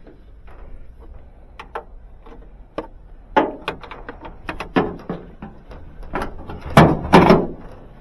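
A run of irregular knocks and clunks, growing louder, with the two loudest close together about seven seconds in.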